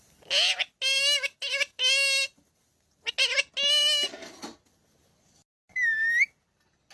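A pet parrot calling: a run of short, high, voice-like calls in two clusters, then after a pause a single short whistle near the end.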